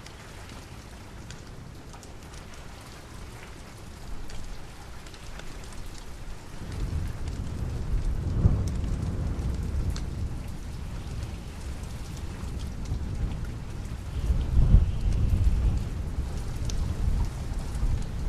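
Steady rain falling, with two low rumbles of thunder in the second half, the later one louder.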